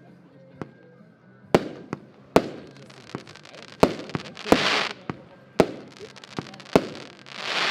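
Diamond Tropical Fire consumer firework battery firing its shots: sharp bangs about once a second, starting about a second and a half in, some followed by a short hissing crackle.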